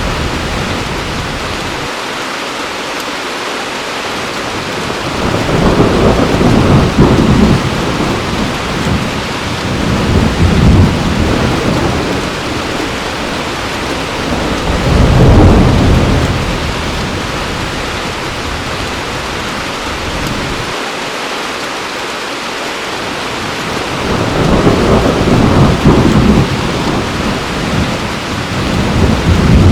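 Heavy rain falling steadily, with low rolls of thunder that swell and fade several times.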